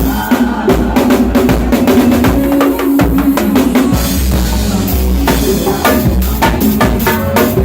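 A drum kit played along with a recorded song, steady rhythmic hits over the song's bass line and other instruments.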